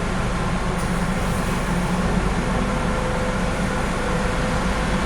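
Car wash air-dryer blowers running steadily, a constant rushing noise with a low hum underneath.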